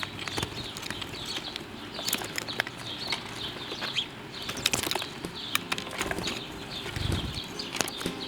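Small birds chirping busily, many short high chirps overlapping, with scattered sharp clicks among them.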